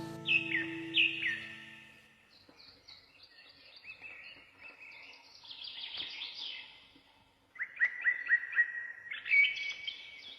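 Songbirds calling and chirping: two loud downward-sliding calls at the start, then scattered high twittering, and a quick run of repeated notes about three-quarters of the way in. Background music fades out during the first two seconds.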